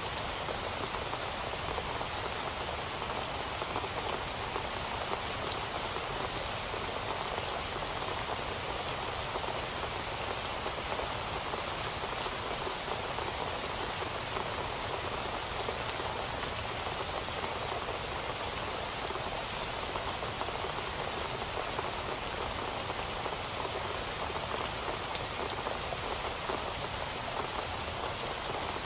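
Steady rain falling on a surface: an even hiss of many drops with fine scattered patters, unchanging throughout.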